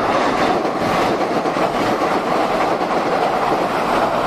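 Diesel railcar of a local train crossing a steel girder railway bridge: a loud, steady rumble of wheels on the steel span.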